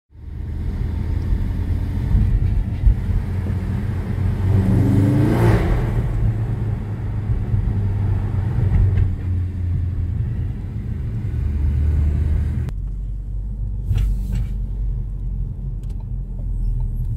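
Ford Focus RS mk3's turbocharged 2.3-litre four-cylinder engine and tyre noise heard from inside the cabin while driving slowly, a steady low rumble. About five seconds in the engine pulls up in revs and eases off again; near the end the road hiss drops away, leaving the low rumble and a few light clicks.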